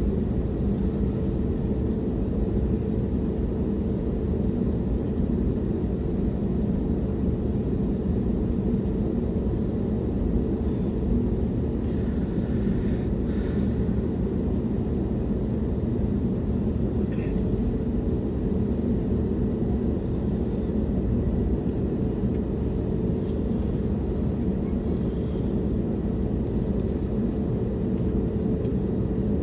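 Steady cabin rumble inside an Airbus A321neo on the ground before takeoff, with the engines running and a constant hum over it. A few faint, brief sounds come through about halfway in.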